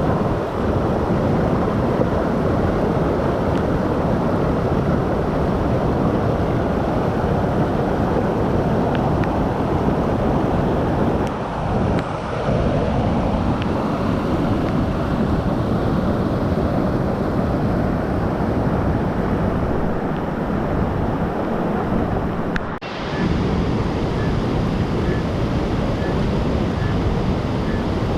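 Rain-swollen stream rushing loudly and steadily, in flood after heavy rain, with a brief break about three-quarters of the way through.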